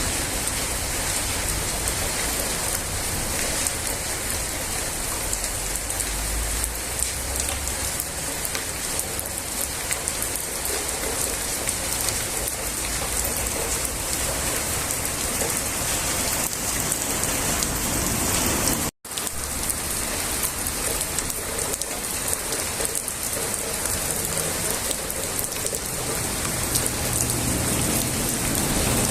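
Heavy rain falling steadily, an even hiss of a downpour, broken by a split-second drop to silence about two-thirds of the way through.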